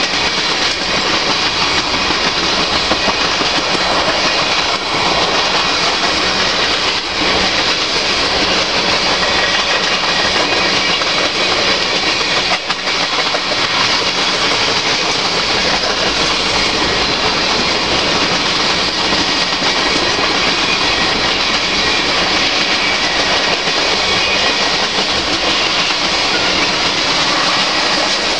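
Freight train of tank cars rolling past at steady speed: a continuous, loud, even noise of steel wheels running on the rails.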